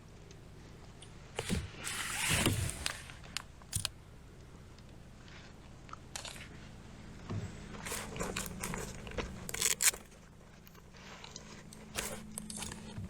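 Irregular clicks, scrapes and rustling knocks of fishing gear being handled close to the microphone in a kayak while a bass is landed, loudest in two clusters about two seconds in and again near the ten-second mark.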